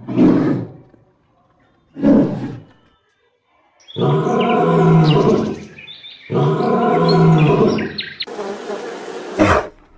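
An animal calling loudly: two short calls, then two long drawn-out pitched calls of about two seconds each, then a rougher, noisier call near the end.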